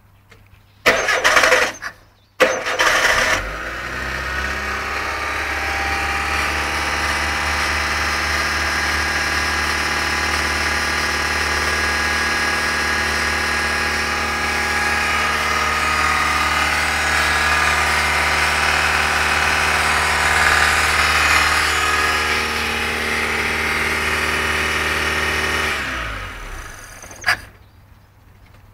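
Mitsubishi 4G93 1.8-litre inline-four cranked by the starter in two short bursts, catching on the second about two and a half seconds in: the engine's first start. It then runs steadily for over twenty seconds and is switched off, winding down, with a single click shortly after.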